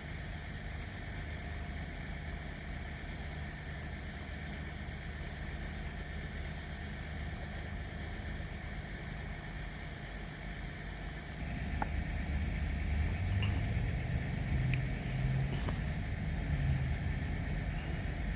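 Diesel locomotive engine running steadily, then opening up about eleven seconds in: it gets louder and its pitch climbs as the throttle comes up, with a few light metallic clinks.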